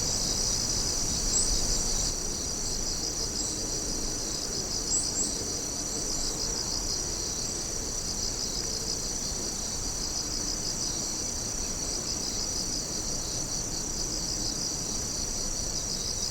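A chorus of crickets and other night insects chirping, a dense, steady, high-pitched trill of rapid pulses, with a few brief higher chirps standing out a second or so in and about five seconds in.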